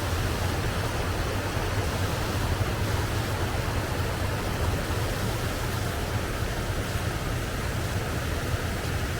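Waterfall rushing: a steady, unbroken rush of falling water with a deep rumble underneath.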